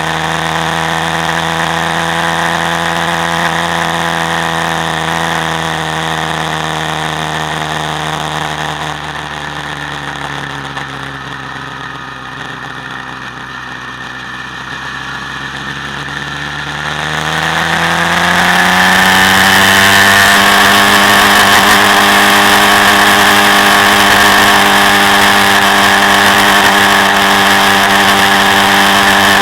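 Quad bike engine heard from on board, running steadily, then easing off with its pitch falling slowly in the middle. About two thirds of the way through it picks up, rising in pitch, and holds at higher revs, louder than before.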